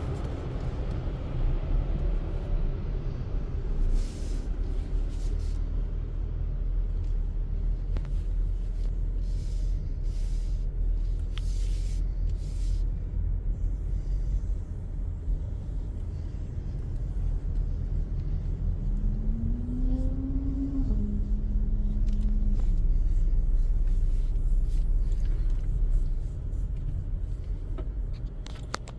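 Steady low rumble of car wash equipment running around a car riding through an express tunnel car wash. Several brief bursts of high hiss come in the first half. About twenty seconds in, a short rising hum levels off into a steady tone.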